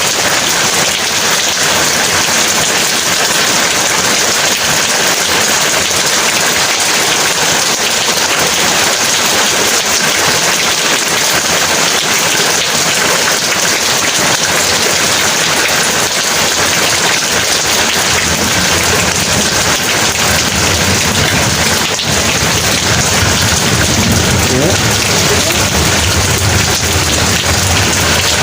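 Heavy rain pouring down steadily. About two-thirds of the way through, a low rumble of thunder builds and is still rolling at the end.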